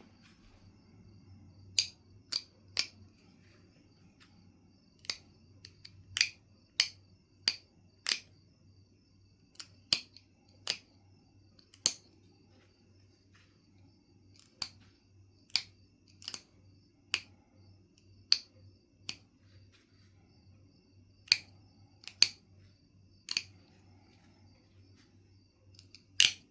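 Sharp, crisp clicks of flakes coming off a Knife River Flint point as it is knapped, about twenty in all at irregular intervals, some in quick runs with short pauses between.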